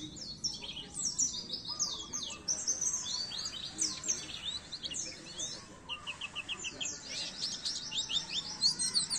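White-eye (pleci) singing a fast, high twittering song of quick down-slurred notes, a little softer in the middle of the stretch.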